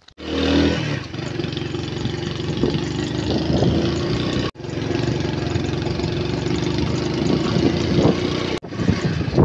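Honda motorcycle engine running at a steady idle, with a short surge as it comes in at the start. It cuts out for a moment about halfway and again near the end.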